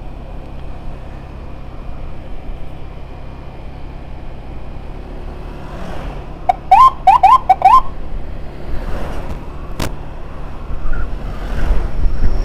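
Steady low engine and road hum while moving slowly, then about halfway through five quick rising chirps from an electronic siren, the loudest sound. A sharp click follows a couple of seconds later.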